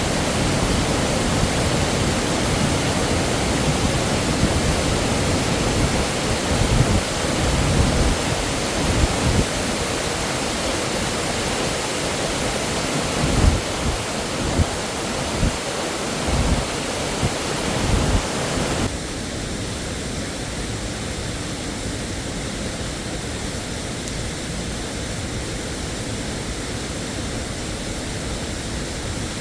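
Waterfall: a steady, loud rush of falling water, with a few low bumps or knocks in the middle. About two-thirds through, the rush drops abruptly to a quieter, duller level.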